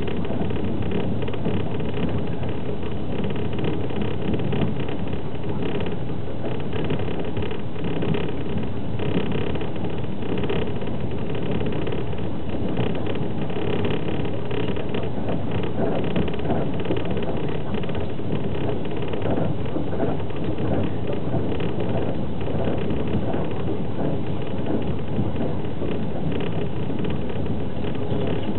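Steady running noise of a fast passenger train moving at speed, heard from inside a platskart sleeper carriage.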